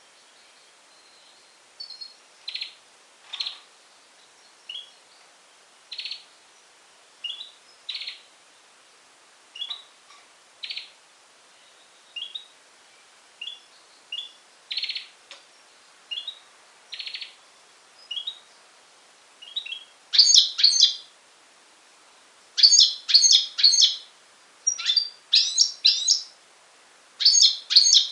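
European goldfinch × canary hybrid (a goldfinch mule) singing: short, separate high chirps about once a second, then, about two-thirds of the way through, louder runs of rapid notes in quick bursts.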